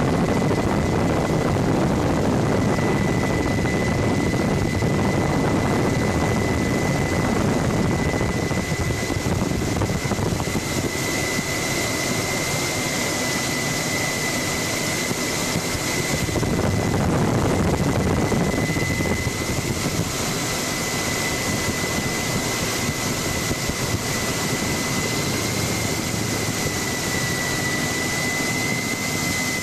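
Helicopter in flight heard from on board: steady rotor and engine noise with a constant high whine running through it.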